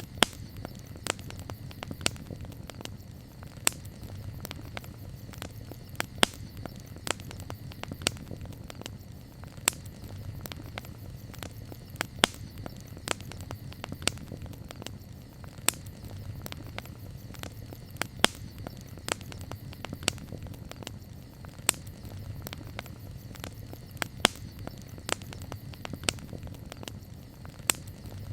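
Campfire crackling: sharp, irregular pops and snaps, roughly one or two a second with the odd louder one, over a steady low rumble of the burning fire.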